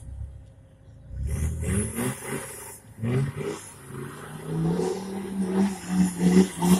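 Off-road 4x4's engine revving hard in repeated bursts as it pushes through deep mud, the revs climbing and holding high near the end.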